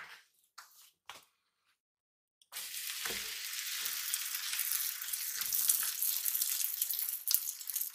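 Rolled aloo cheese paratha sizzling in oil on a hot tawa. The sizzle starts suddenly about two and a half seconds in, as the paratha goes onto the pan, and then goes on steadily.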